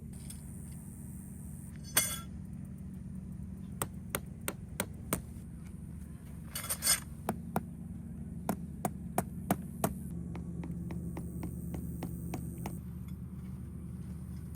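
A series of sharp knocks and taps, coming in short runs of about three a second, over a steady low hum.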